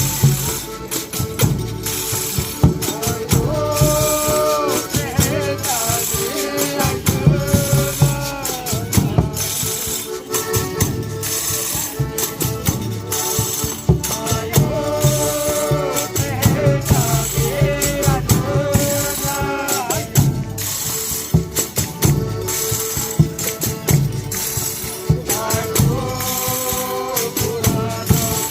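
Folia de Reis music: tambourine and shaken rattles keep up a dense, steady beat. Voices come in with sung phrases several times and then drop out again.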